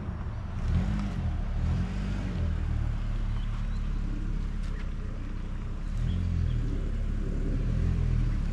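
Vehicle on the move: a steady low engine and road rumble with some swelling, buffeting low sounds.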